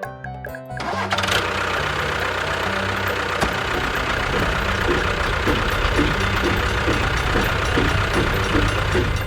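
Engine running with a steady, regular knocking beat, starting abruptly about a second in as the music stops.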